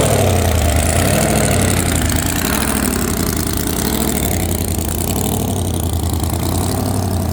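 A car engine idling loud and steady, with a low rumble.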